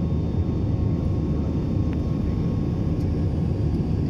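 Steady low drone of an aeroplane's engines, an even rumble with a faint hum on top.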